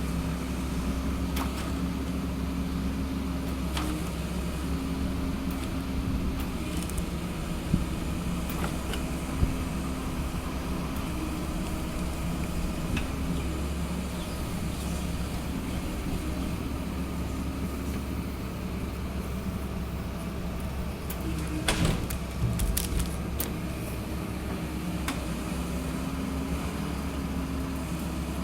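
Small excavator-based forestry harvester's diesel engine and hydraulics running steadily, the pitch stepping up and down as the hydraulics take load. A few sharp knocks come through, with a cluster of clatter about three-quarters of the way through.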